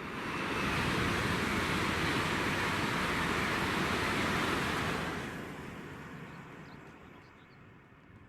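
A train passing through at speed: a rushing wheel and air noise that swells up, holds for about four seconds, then fades away.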